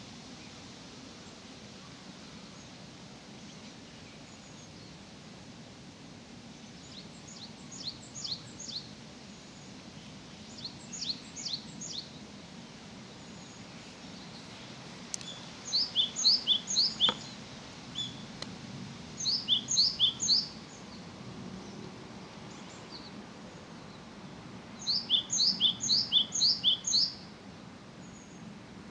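A songbird singing short phrases of quick, high, repeated notes, about five phrases a few seconds apart, over a steady low background hum. There is a single sharp click about halfway through.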